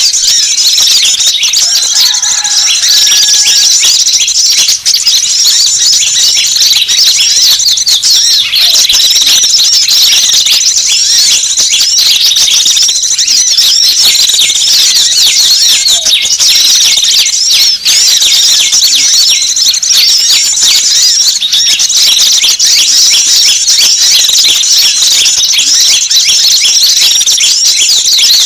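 Loud, unbroken chorus of rapid high-pitched chirps and twitters from many small wild birds layered together: a bird-lure (pikat) call mix played to attract small birds.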